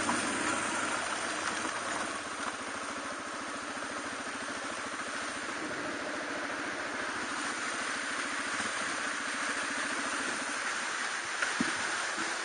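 Suzuki DR250R's single-cylinder engine idling with an even beat under a steady hiss, with a couple of brief knocks near the end.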